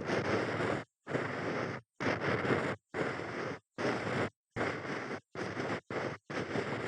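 ASMR ear cleaning: an ear-cleaning tool rubbing in the ear in a quick run of about nine strokes, each under a second, with dead silence between them.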